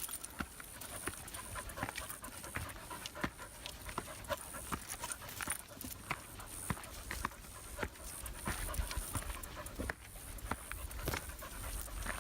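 Dog panting hard in the heat, with irregular crunching footsteps on the trail.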